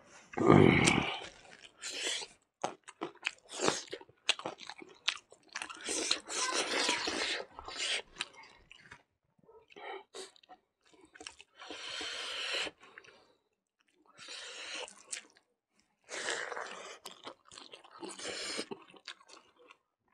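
Close-miked chewing and crunching of a mouthful of food, in irregular bursts of a second or two with short pauses between. A louder, deeper burst comes about half a second in.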